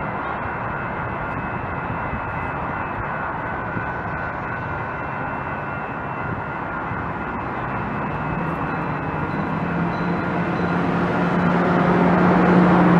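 A train running past close by: a steady dense rumble and rail noise, with a low droning tone that grows louder over the last few seconds as it nears.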